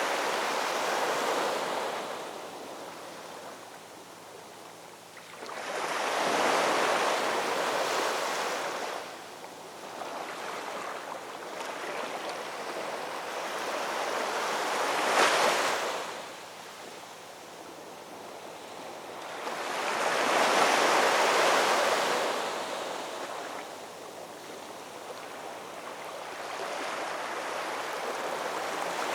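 Ocean surf: waves break and wash in, one surge about every five to seven seconds, with one sharper crash about halfway through.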